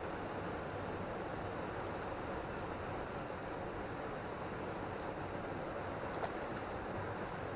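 Steady rush of a high, fast-flowing river current, with one brief click about six seconds in.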